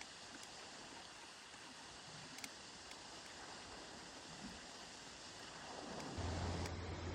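Steady rain falling, an even hiss with a few faint ticks of drops. About six seconds in, a louder steady low hum joins it.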